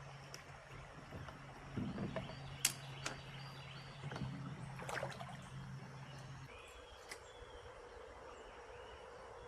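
Steady low hum of a foot-controlled electric trolling motor that cuts out about two-thirds of the way through, leaving a fainter higher steady tone. Scattered clicks and knocks of handling in the boat fall in the first half.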